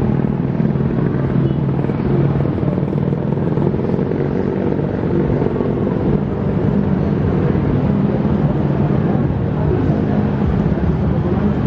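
A diesel locomotive's engine running steadily: an even, loud low drone with a few held pitches.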